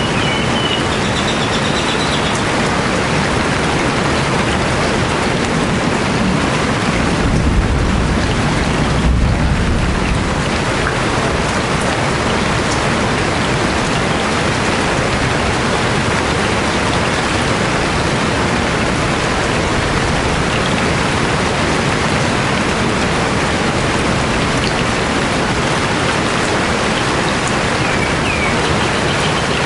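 Steady rain falling, a dense even hiss, with a low rumble about seven seconds in lasting a few seconds. There are faint bird chirps near the start and again near the end.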